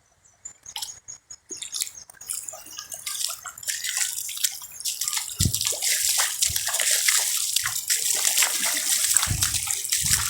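Water splashing and sloshing close by, building up over the first few seconds into a steady busy wash with many small crackles and a few low thumps.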